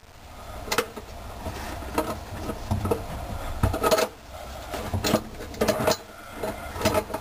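Small metal parts clinking and tapping: the mounting screws knocking against the disposal's metal mounting ring as they are started, in irregular clicks and knocks.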